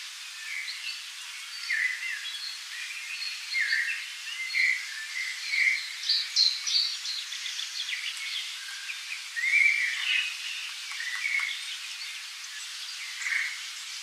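Several songbirds chirping and singing at once, many short calls overlapping, over a steady hiss of forest ambience.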